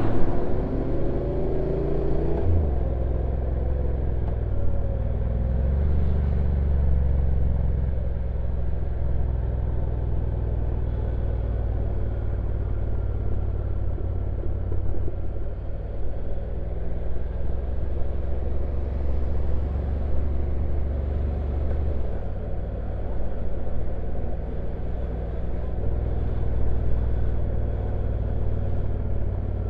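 Honda NC750X DCT motorcycle on the move downhill: its stock-exhaust parallel-twin engine running steadily at low revs under a constant low rumble of wind and road noise. The engine pitch climbs over the first couple of seconds, then drops about two and a half seconds in.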